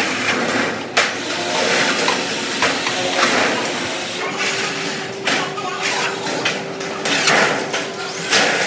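Workshop din: repeated metal knocks and clatter over a steady machine hum, with voices in the background.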